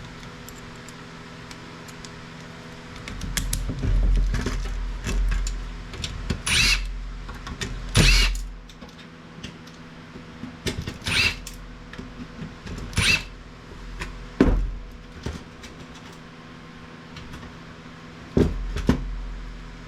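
Metal clanking from hand disassembly of scrap IT equipment. Steel parts are handled, knocked and dropped, with several sharp ringing clanks and some duller thuds, over a steady low hum.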